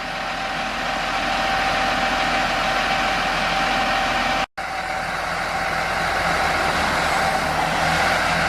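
Steady vehicle engine and road noise with a thin, steady whine above it. It cuts out for a moment about four and a half seconds in, then carries on.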